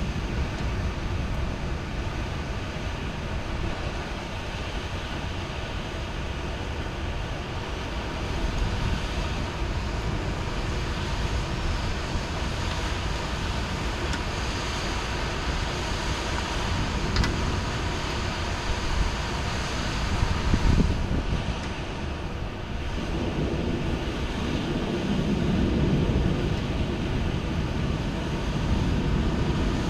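Heavy rain falling steadily, with a low rumble that swells about 23 seconds in.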